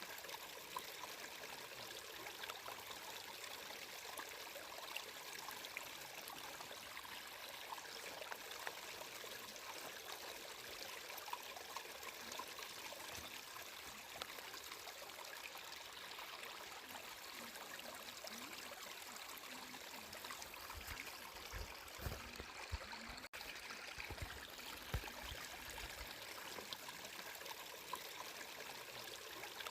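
Flowing stream water, a steady rushing and trickling with fine splashy ticks, broken by a brief dropout about three-quarters of the way through.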